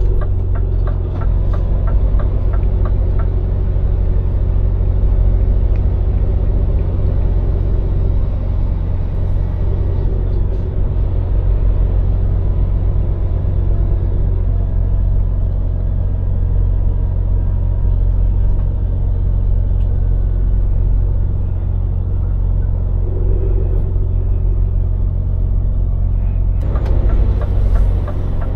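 Scania lorry's diesel engine running under way, a steady low drone as heard in the cab, with runs of regular ticking at the start and again near the end.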